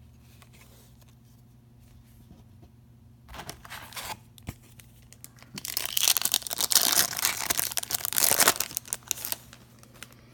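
Foil trading-card pack wrapper being torn open and crinkled: a short crackle a few seconds in, then several seconds of loud tearing and crinkling that dies away near the end.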